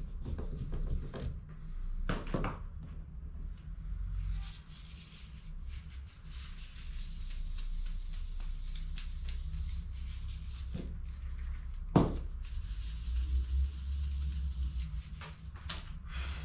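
Hands handling and rubbing the plastic parts of a laser toner cartridge during refilling: scattered clicks and knocks, a long stretch of hissing, rubbing noise, and one sharp click about twelve seconds in, over a steady low hum.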